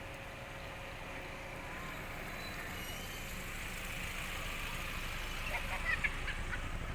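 A motor vehicle engine running, getting gradually louder, with a few short high chirps a little before the end.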